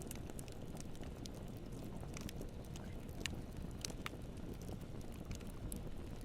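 Campfire burning: a steady low rumble of flames with scattered sharp crackles and pops of burning wood, a couple of louder pops a little past the middle.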